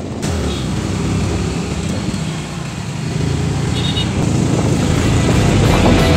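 Motorcycle engine running steadily while riding, with road and wind noise; it grows gradually louder.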